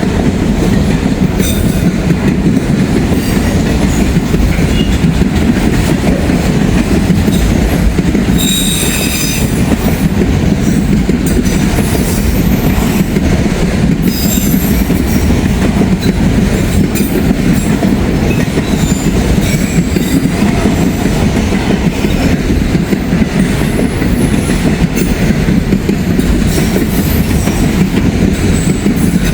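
Freight train rolling past at close range while crossing over from one track to the other, its wheels clacking over the rail joints and switches. A brief high wheel squeal comes about nine seconds in.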